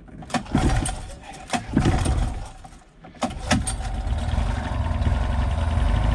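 Honda four-stroke outboard motor being pull-started: three quick cord pulls, and the engine catches on the third, about three and a half seconds in, then settles into a steady idle.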